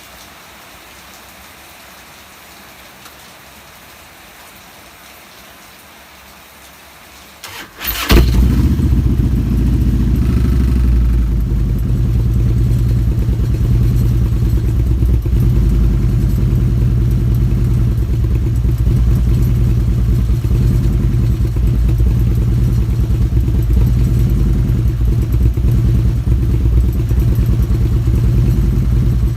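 Steady rain hiss for about the first seven seconds, then a Harley-Davidson V-twin's starter cranks briefly and the engine catches and settles into a loud, steady idle, being warmed up.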